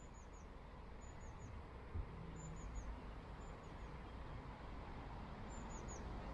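A small songbird calling over and over: a quick group of three short, high, falling notes about once a second. Low rumbling background noise underneath, with a short soft bump about two seconds in.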